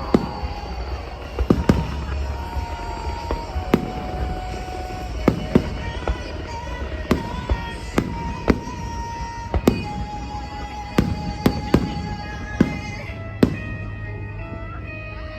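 Fireworks going off: a string of sharp bangs at irregular intervals, about one or two a second, with music playing under them. The bangs stop about two seconds before the end and the music carries on.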